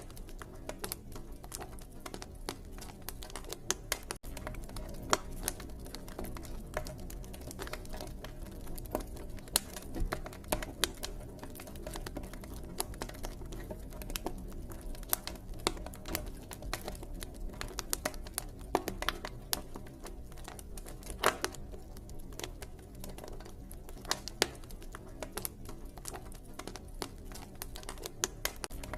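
Campfire crackling: burning wood gives irregular sharp pops and snaps, many each second, over a low steady rumble.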